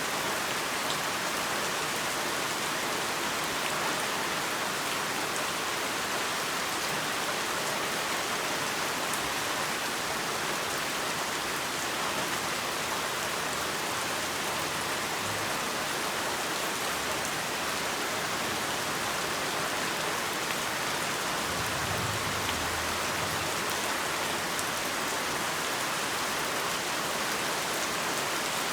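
Heavy rain falling steadily, a constant even hiss of rain on surfaces with a faint low rumble about two-thirds of the way through.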